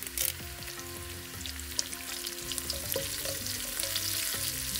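Curry leaves sizzling and crackling in hot coconut oil in a wok, along with frying coconut slices and crushed garlic, stirred with a wooden spatula. A brief louder spit comes just after the start, and the sizzle grows a little louder toward the end.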